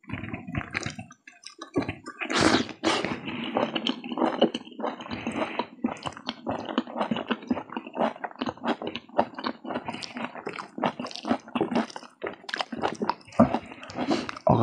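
Close-up chewing of noodles and curry, with many short wet mouth clicks and smacks.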